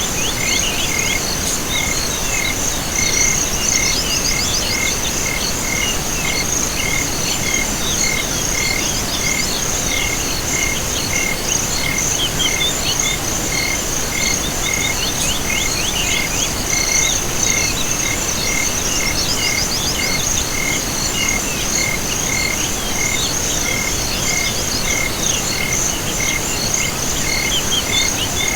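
Chorus of insects and frogs: a steady high trill runs throughout, with a short note repeating about once or twice a second and scattered quick chirps over it.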